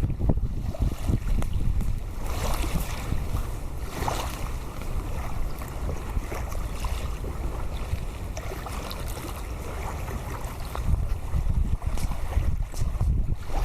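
Wind buffeting the microphone in gusts, with a steady rushing hiss. The gusts are stronger at the start and again near the end.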